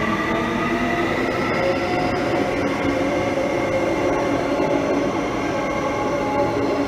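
Transperth B-series electric train pulling out of an underground station platform. Its traction motors whine in several tones that shift and step in pitch as it gathers speed, over steady wheel and running noise echoing off the station walls.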